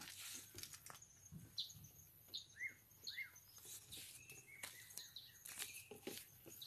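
Faint, scattered chirps of small birds, with brief clicks and rustles among them.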